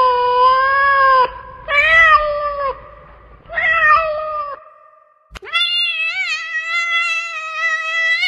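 Domestic cat meowing: a long meow that ends about a second in, two short meows, then a click and a long, drawn-out meow that wavers in pitch.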